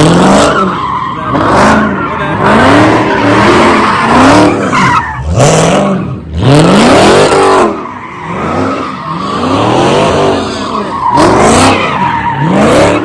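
A V8 muscle car doing donuts: the engine revs up and falls back over and over, about once a second, over the steady screech of spinning tires.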